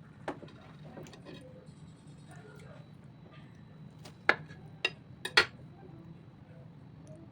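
Dishes, glass and cutlery clinking in a kitchen, with a few sharp clinks about four to five and a half seconds in, over a low steady hum.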